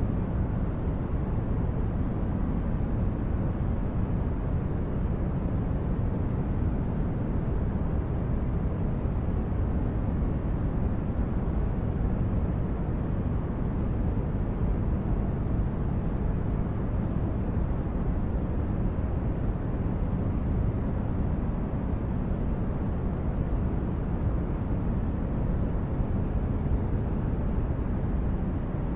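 Synthesized spaceship-interior ambience: a steady, deep rumbling hum like brown noise, with no distinct events.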